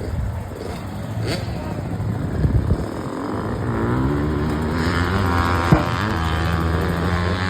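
Motocross dirt bike engine revving up, its pitch rising and the sound growing louder a few seconds in, then holding steady at speed, with one sharp click just before the end.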